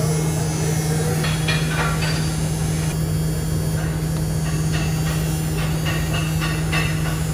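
Steady low hum with a hiss underneath, and two clusters of small metallic clicks and taps: hand tools working loose the switch on a bench grinder's housing.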